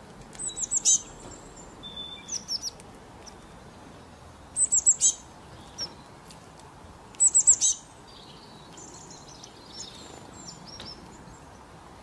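A small songbird chirping in four quick bursts of very high notes, three to five notes each, with softer twittering near the end.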